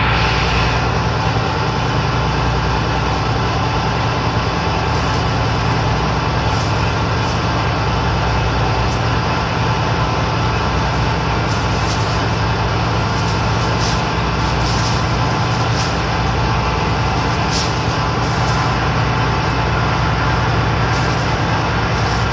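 Steady, loud drone of a ship's engines and machinery, a constant low hum under an even rushing noise, unchanging throughout.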